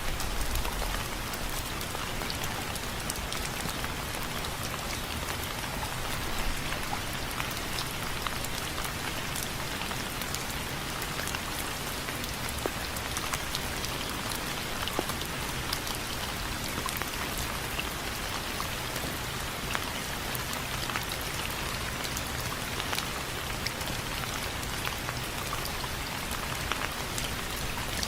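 Steady rain, with many single drops tapping sharply on window frames over the even hiss of the downpour.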